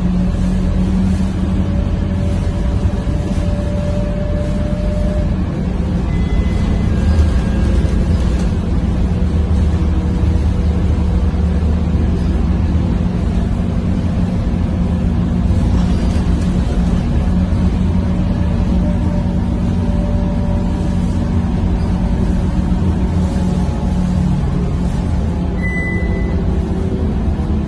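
Scania K230UB city bus's five-cylinder diesel engine running under way with a steady, loud drone, its pitch drifting slowly.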